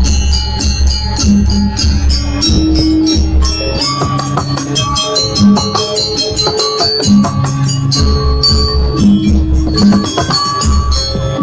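Gamelan music for a Balinese janger dance: rapid, dense cymbal-like strokes over drumming and held pitched metallic tones.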